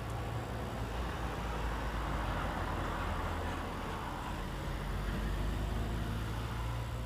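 A road vehicle passing, its noise swelling in the middle and easing off again, over a steady low hum.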